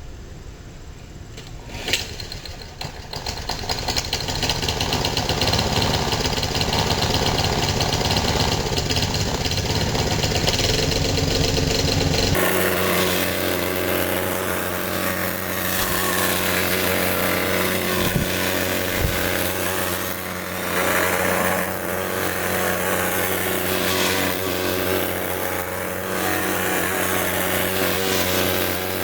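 Craftsman 4.0 hp push-mower engine starting about two seconds in, then running steadily after its gummed-up carburetor has been cleaned out.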